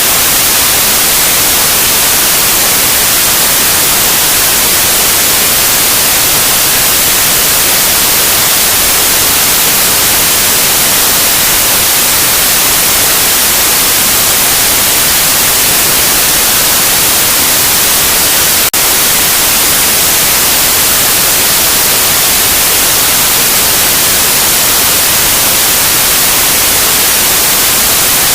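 Loud, steady white noise: an even hiss across all pitches, brightest in the treble. There is a momentary dip about two-thirds of the way through.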